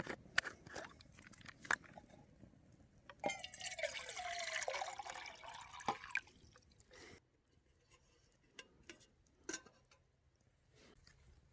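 A few light clinks, then about three seconds of liquid being poured into a mug to make a brew, the tone of the pour sliding downward. A few small knocks follow.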